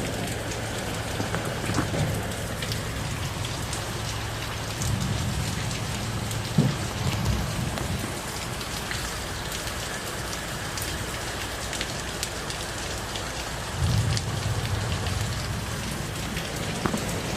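Steady rain falling, with many sharp separate drop hits close by. A low rumble swells up twice, about five seconds in and again near fourteen seconds.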